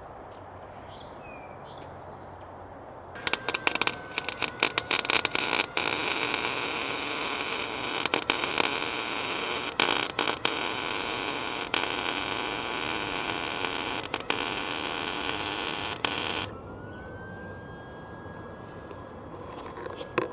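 Arc welder laying a bead over a hairline crack in a coated exhaust header: a loud, even crackle that starts about three seconds in, breaks off briefly a few times, and stops suddenly a few seconds before the end.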